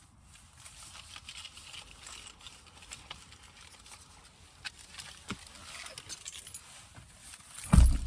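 Faint scattered clicks and light rustling, then one heavy low thump near the end.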